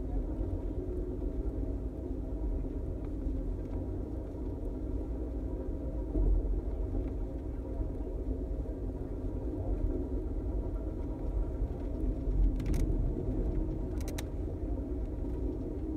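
Moving passenger train heard from inside the car: a steady low rumble of the wheels on the rails and the running car. Two sharp clicks come near the end.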